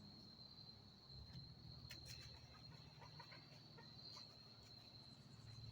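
Faint, steady, high-pitched trill of insects such as crickets, with a few soft clicks.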